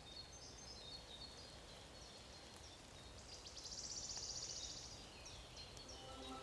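Quiet forest ambience: a faint steady hiss with scattered short, high bird chirps, and a rapid high trill lasting about a second and a half near the middle.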